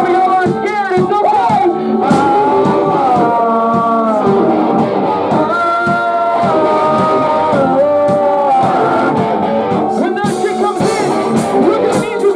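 Post-hardcore band playing live: a sung melody of held notes over guitar, keyboard and drums, with cymbals growing brighter near the end.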